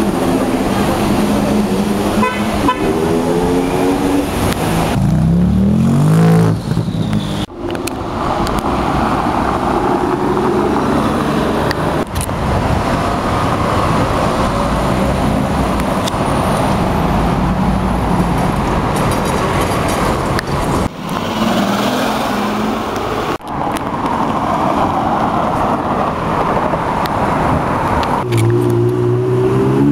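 Supercar engines revving, their pitch climbing sharply several times in the first few seconds and again near the end. In between is a long stretch of street traffic noise with engines running.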